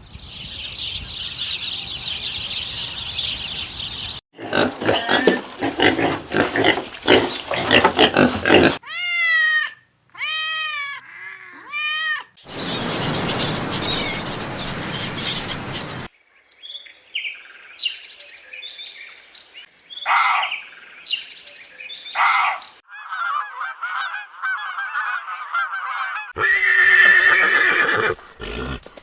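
A series of different animal sounds played one after another, with abrupt cuts between them, among them a run of four arching pitched calls about nine seconds in.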